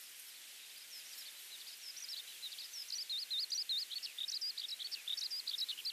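A songbird singing a rapid, continuous warbling song over a steady outdoor hiss. The song comes in about a second in and grows louder.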